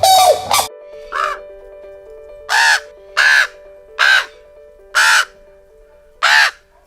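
A bird giving six harsh, caw-like calls about a second apart, over soft background music. The first call is fainter than the rest. At the very start, the last of a different animal's honking calls cuts off.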